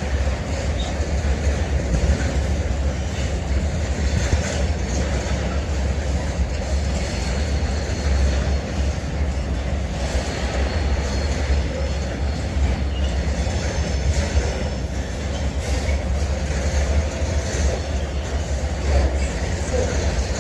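Train running at a station, a steady low rumble with rail noise throughout.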